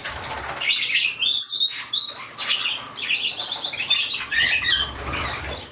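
A mixed flock of pet birds (cockatiels, budgies, canaries and Bourke's parakeets) chirping and chattering over one another, many short high calls overlapping.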